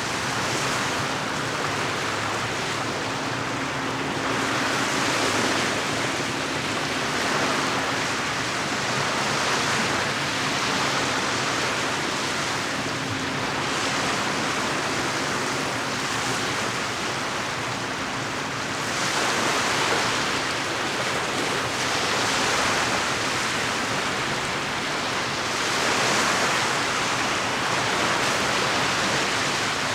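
Small lake waves washing against the shore: a steady rush of water that swells and eases every few seconds.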